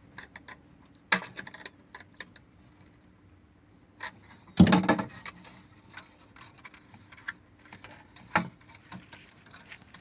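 Scattered clicks and knocks of small parts being handled while a refrigerator thermostat is fitted into its cover, with a louder clatter about halfway through and a sharp knock near the end.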